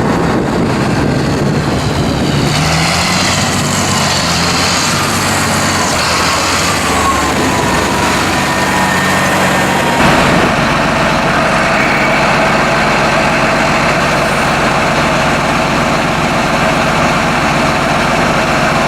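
John Deere 8120's six-cylinder turbocharged diesel engine running, its pitch rising over the first few seconds, with the sound changing abruptly about ten seconds in.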